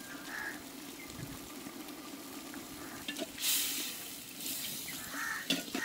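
Chicken pieces and tomatoes frying in oil in a large metal pot, with a steady sizzle, while a perforated metal ladle stirs them, knocking against the pot a few times. The sizzle swells briefly about three and a half seconds in as the ladle turns the pieces.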